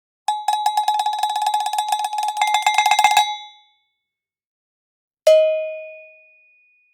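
A cowbell rattled fast for about three seconds, in quick ringing clanks, then after a short pause a single lower bell strike that rings out and fades.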